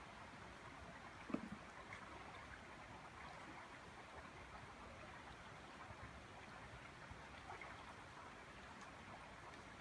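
Quiet outdoor background: a faint steady hiss, with a few faint ticks and one soft thump about a second and a half in.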